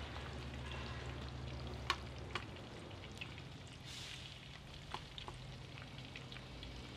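Steak fries sizzling in hot oil in a FIREDISC plow-disc cooker over a low steady hum, with a metal spatula stirring them and a few sharp clicks against the pan.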